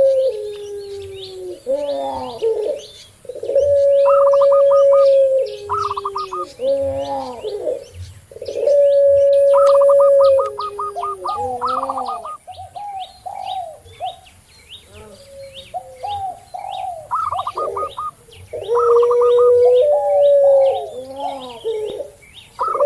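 Domestic doves cooing together: puter pelung doves, perkutut zebra doves and tekukur spotted doves. Long held coos recur several times, each stepping down in pitch near its end. Between them come quicker, higher trilled coos, with small chirps throughout.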